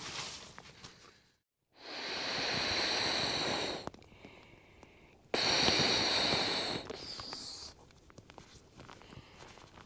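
Wind rushing in strong gusts, in two loud stretches of about two seconds each, separated by short abrupt cuts and quieter rustling.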